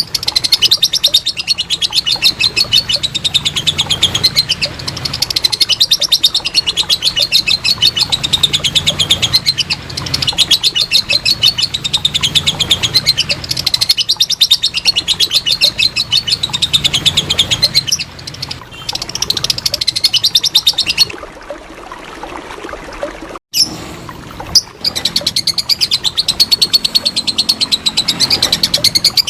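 Lovebird giving its 'ngekek', a long, very rapid chattering trill of sharp high notes in long unbroken runs. Near the end it eases into a quieter stretch, cuts out briefly, then starts again.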